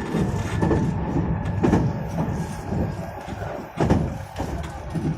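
Meitetsu 2200 series electric train running, heard from inside the car: a steady rumble with irregular knocks from the wheels over the rails.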